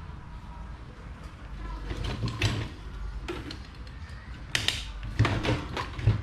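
A run of knocks, clicks and scrapes of hard parts being handled during a fan repair, coming in two clusters, the busier one near the end, over a low steady hum.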